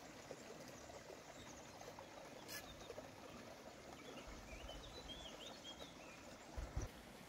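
Quiet outdoor ambience with a bird chirping faintly a few times midway through. There is a single click a little after two seconds, and a low rumble from about four seconds with two short thumps near the end.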